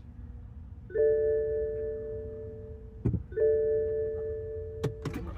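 BMW dashboard warning chime sounding twice, each a steady bell-like tone lasting about two seconds. A short thump comes between the two chimes, and a few sharp clicks follow near the end.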